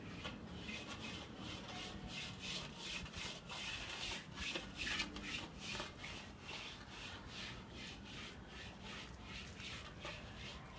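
A hand tool scraping or rubbing over a wall surface in quick repeated strokes, about three a second, the kind of sound made when plaster or masonry is being worked by hand.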